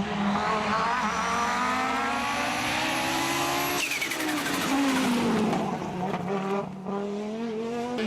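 Rally car engine under hard acceleration, its pitch climbing steadily for about four seconds. It then drops sharply as the driver lifts off, falls away for a couple of seconds, and rises again near the end.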